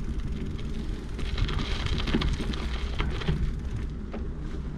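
Bicycle riding along a road: a steady rolling rumble with scattered clicks and rattles.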